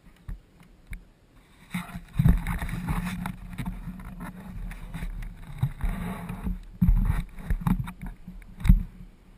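ATV running with a low rumble, broken by irregular knocks and jolts on the camera mount and some wind on the microphone; it gets louder about two seconds in.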